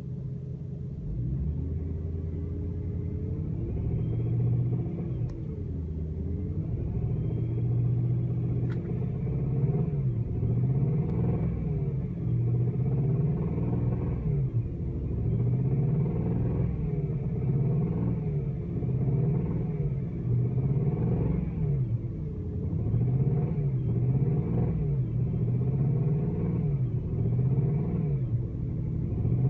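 Car engine running with slowly varying revs, then from about ten seconds in revved up and back down over and over, roughly every two seconds. The owner suspects the noise it makes is a rod bearing, after fresh VAC rod bearings were fitted.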